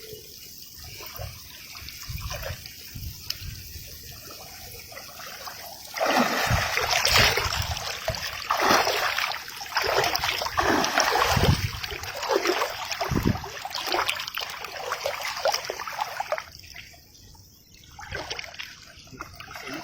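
River water splashing and sloshing, quiet trickling at first, then loud uneven splashing from about six seconds in that dies down near the end.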